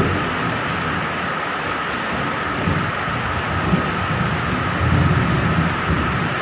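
Steady heavy rain falling, with low rumbles of thunder that swell and fade several times.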